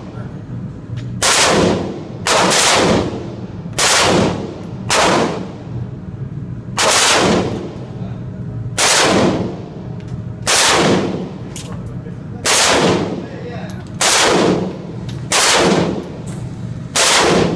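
A firearm fired in single aimed shots, about a dozen, one every one to two seconds, each shot with a ringing tail as it dies away.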